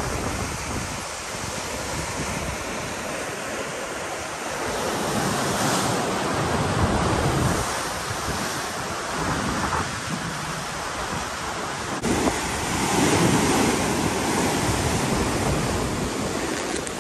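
Ocean surf rolling and breaking, a rushing noise that swells and ebbs twice, with wind buffeting the microphone.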